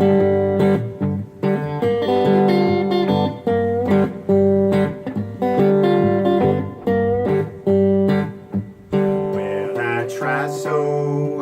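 Guitar playing a Mississippi Hill Country blues, plucked and strummed in a repeating riff.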